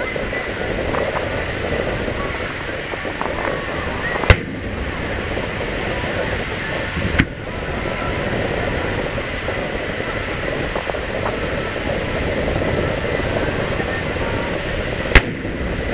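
Aerial firework shells bursting: three sharp booms about four, seven and fifteen seconds in, the first and last the loudest. Under them is a steady background of crowd voices.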